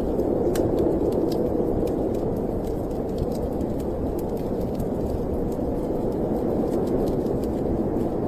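Steady snowstorm wind with scattered small crackles and pops from a wood fire.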